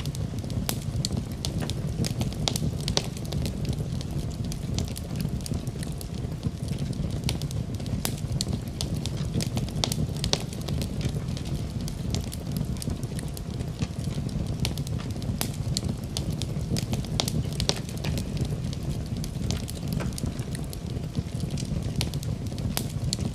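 Wood fire crackling in a fireplace: frequent sharp irregular pops and snaps over a steady low rumble.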